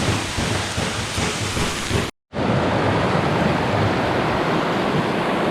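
Steady rushing water of a waterfall, with a short dropout to silence about two seconds in before it resumes.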